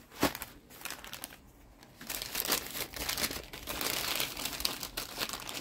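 Meat packaging from the butcher being unwrapped: a single knock just after the start, then continuous crinkling and rustling of the wrapping from about two seconds in.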